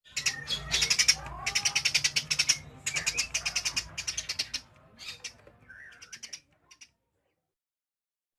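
Eurasian tree sparrow chirping in fast rapid-fire runs, several bursts in a row, growing fainter after about five seconds and stopping about seven seconds in.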